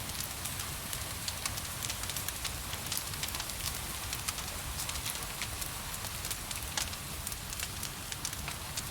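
Wood fire crackling in a fireplace, with frequent irregular sharp pops over a steady hiss of gentle rain and a low rumble.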